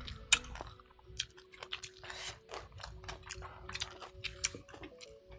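Raw green jujube fruit being chewed and bitten, picked up close by clip-on microphones: irregular crunches and wet mouth clicks.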